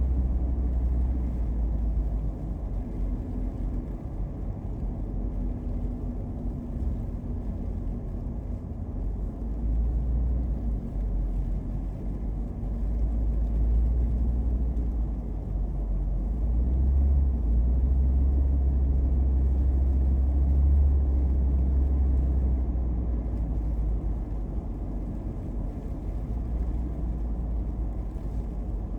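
A car driving, with a steady low rumble of engine and tyres on the road that swells a little twice, the second time for several seconds.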